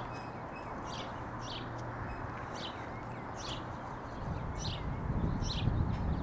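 A small bird chirping repeatedly, short high chirps about once or twice a second, over steady background noise. A low rumble swells in the last two seconds and becomes the loudest sound.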